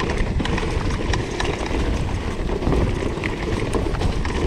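Shimano E8000-powered electric mountain bike (2020 Merida E160) coasting down a rooty trail: a steady low rumble from the tyres and trail, with many small scattered clicks and light rattles from the bike. This is one of the bikes that stays comparatively quiet when descending.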